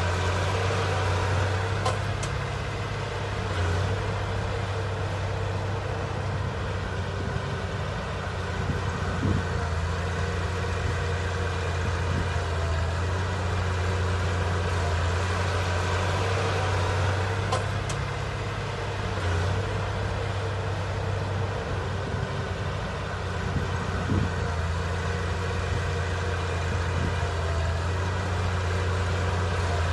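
Heavy diesel engine of earthmoving machinery running steadily at a constant pitch, with a couple of faint clanks.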